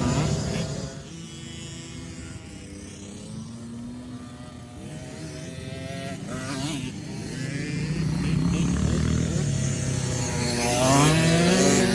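Small dirt bike engines running on a motocross track: loud at first, fading about a second in, then building again with rising revs to the loudest point near the end as a bike accelerates closer.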